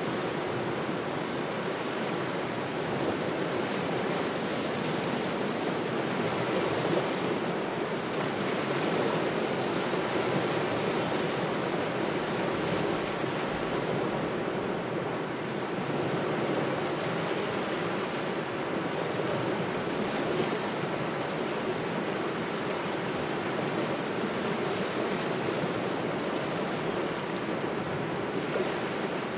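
Waves washing steadily onto a shore in cold autumn wind, the level swelling and easing gently. Wind buffets the microphone.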